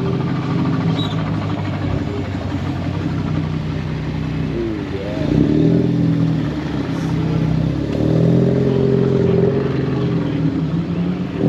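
A car engine running close by, its revs rising and falling about five seconds in and again around eight seconds in.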